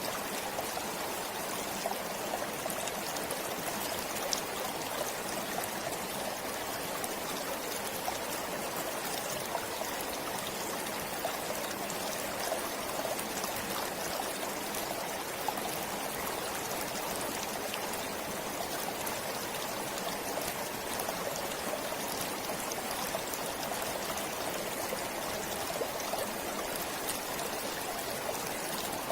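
Forest stream flowing steadily, with small splashes and trickles over the rush of water.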